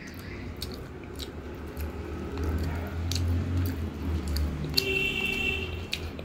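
Close-miked chewing of a mouthful of rice and chicken curry, wet and squishy, with small mouth clicks, while fingers mash rice into the curry on the plate.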